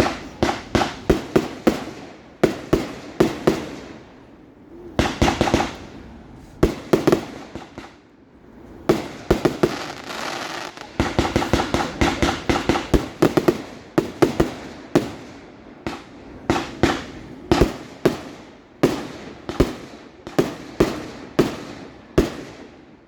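Fireworks display: aerial shells bursting in rapid clusters of loud bangs, with short pauses between volleys and a denser run of crackling bursts about ten seconds in.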